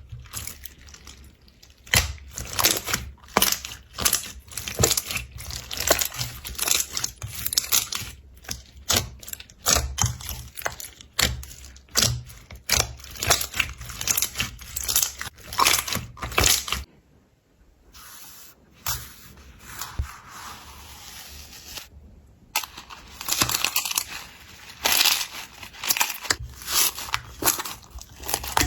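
Slime being squeezed, poked and stretched by hand: a dense, irregular stream of sticky clicks, pops and crackles. It drops out briefly twice, about two-thirds of the way through, then starts again.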